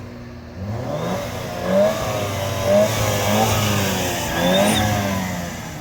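Turbocharged car engine blipped from idle about four or five times, the pitch rising and falling with each blip, with a brief high turbo whistle over one of the later revs before it settles back toward idle.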